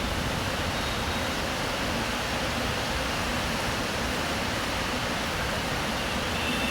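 Rain falling steadily, a continuous even hiss, with a low rumble of traffic underneath.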